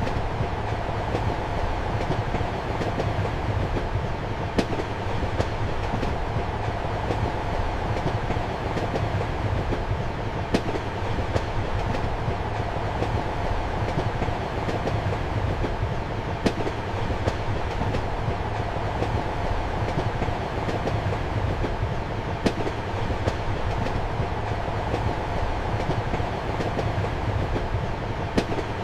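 Passenger train running steadily, heard from inside a compartment: a constant rumble with the clickety-clack of wheels over rail joints, a sharper click about every six seconds and lighter ticks between.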